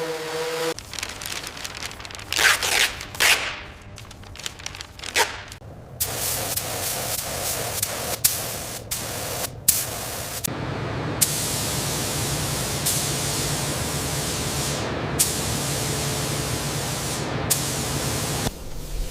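Steady hissing spray noise in several abruptly cut stretches, the longest carrying a low hum beneath it, with a few sharp clicks.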